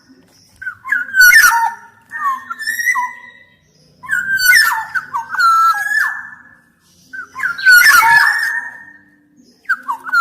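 Black-naped oriole (kepodang emas) singing loud, fluty whistled phrases of gliding notes, four phrases with short pauses between them.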